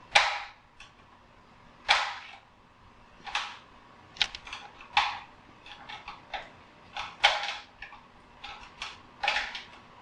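Hand tool working on a metal fluorescent light fixture while the ballast is being removed: a string of sharp clicks and snaps, uneven, about one a second, some in quick pairs.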